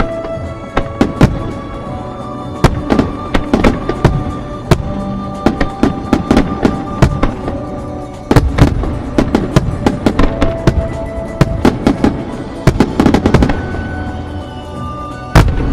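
Aerial firework shells bursting in rapid succession over background music, with a heavier boom about eight seconds in and another near the end, and a quick run of crackling bursts shortly before it.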